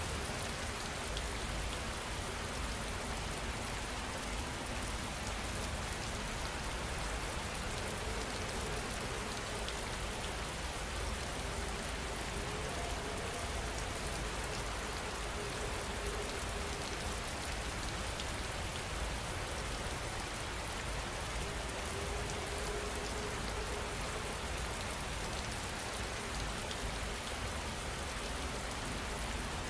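Steady heavy rain falling and pattering on surfaces, without thunder.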